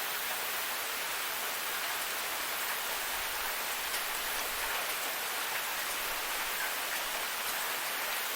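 Forest waterfall: a steady, even hiss of falling and splashing water.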